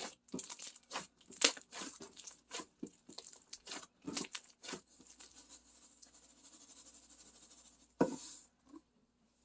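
Black slime mixed with foam beads being worked, giving a run of sharp crackles and pops. After about five seconds it goes quieter for a few seconds, then there is a louder crackle near the end.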